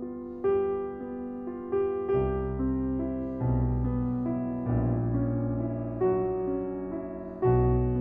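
Background piano music: gentle struck chords and melody notes, with deep bass notes coming in about two seconds in.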